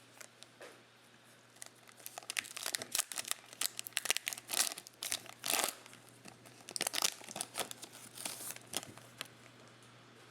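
Crinkling and tearing of a plastic trading-card pack wrapper as a pack is ripped open, in a dense run of crackles from about two seconds in until near the end.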